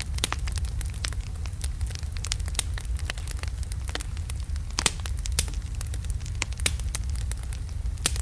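Wood logs burning in a fireplace: a steady low rumble of flame with frequent sharp, irregular crackles and pops, one louder pop about five seconds in.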